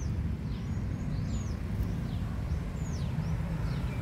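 Birds calling with many short, down-slurred whistled chirps, several a second, over a steady low rumble.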